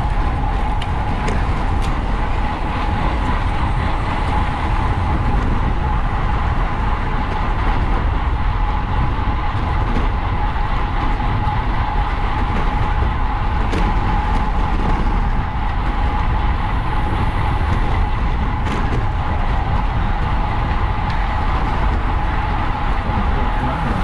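Wind rushing over the microphone of a camera on a racing bicycle at speed, a steady low roar with a constant mid-pitched hum from the moving bike, and a few faint clicks.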